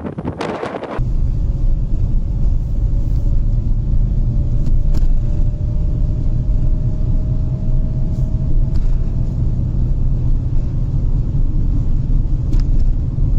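Steady low rumble of a car driving on a road, with a faint whine slowly rising in pitch over several seconds. It is preceded by about a second of gusty wind noise on the microphone.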